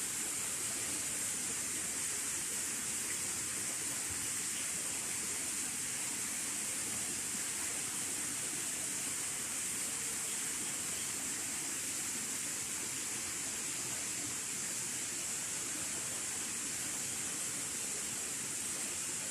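Steady high-pitched hiss that does not change, with no distinct events.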